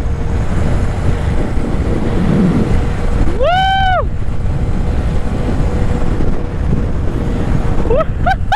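Wind buffeting the microphone while riding a Honda Grom's 125 cc single-cylinder engine at road speed, a loud steady rumble. About three and a half seconds in there is a short pitched vocal "ooh" that rises and falls, and more such glides near the end.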